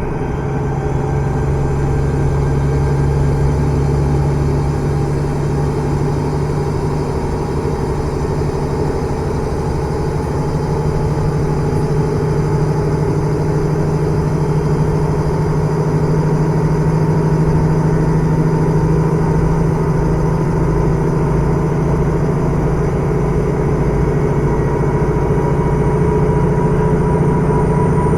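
KiHa 110 series diesel railcar running under way, heard from inside the car: a steady diesel engine drone with running noise. Its tones creep slowly up in pitch near the end.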